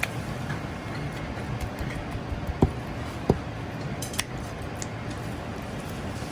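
Steady background noise of a working restaurant kitchen, with a few short, sharp knocks and clicks, the two loudest a little after the middle.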